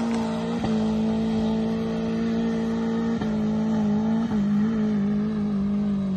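Daihatsu Terios engine revving hard and held at high revs under load as it climbs a muddy slope, a steady high-pitched drone that dips briefly three times.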